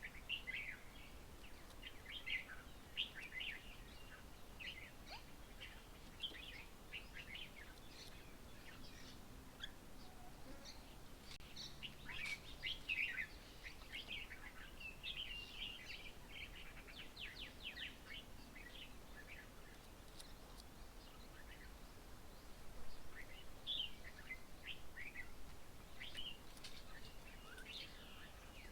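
Birds chirping: many short, high chirps, thickest in the middle, with a quick run of notes about halfway through.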